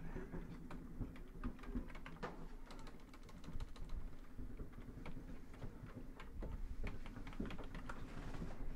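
Faint, irregular pops and clicks of paintball markers firing during a live point, over a low steady hum.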